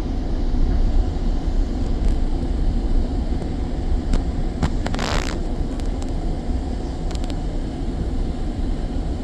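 GO train running with a steady low rumble as it arrives at the station. A short hiss comes about five seconds in, with a few faint clicks around it.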